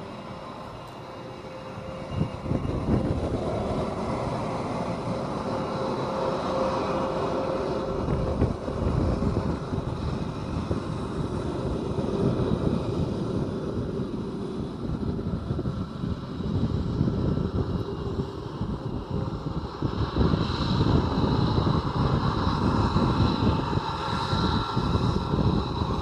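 Lockheed Martin F-22 Raptor's twin Pratt & Whitney F119 turbofan jet engines running loud, the noise jumping up about two seconds in and staying loud, with a high whine above the rumble near the end.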